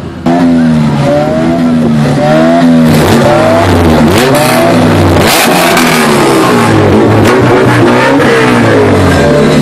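Car engine revved hard over and over at close range, its pitch climbing and dropping about once a second. A loud rushing noise joins from about three seconds in.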